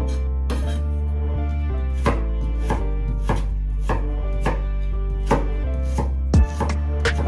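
Knife chopping vegetables on a cutting board, a sharp knock roughly every half second, over soft background music.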